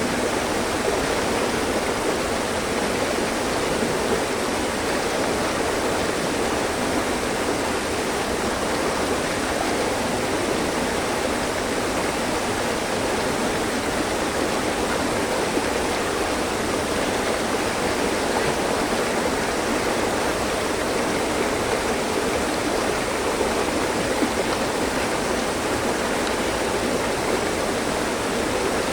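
Mountain stream flowing over rocks: a steady rush and babble of water with no change in level.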